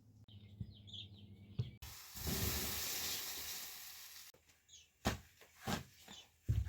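A steady hiss lasting about two and a half seconds, starting and stopping abruptly, followed by several short sharp knocks. Faint bird chirps sound before the hiss.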